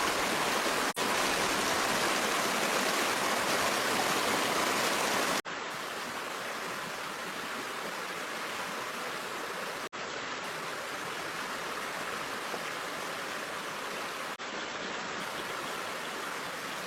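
Steady rush of flowing stream water, with a few brief dropouts about every four to five seconds; it is a little quieter after about five seconds in.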